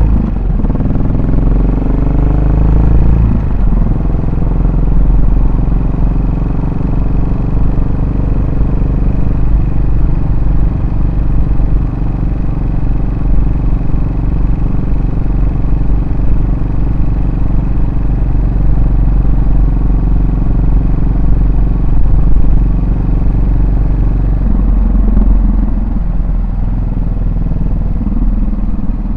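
Yamaha SR400's air-cooled single-cylinder four-stroke engine and exhaust under way. The engine pitch rises over the first few seconds as the bike accelerates, then holds steady at cruising speed, and the note changes again near the end.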